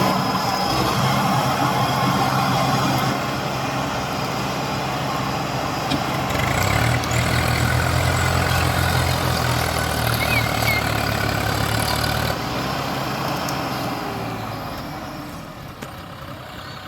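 Diesel tractor engine running, its low note strongest from about seven to twelve seconds in, then dying away over the last few seconds.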